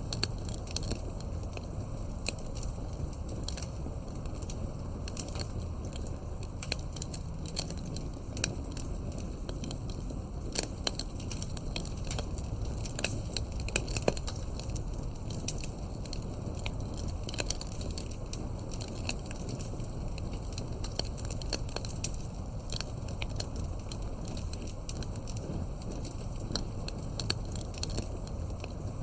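Wood fire crackling steadily, with many small irregular pops and snaps over a low, even rumble of flame. A sharper snap comes about halfway.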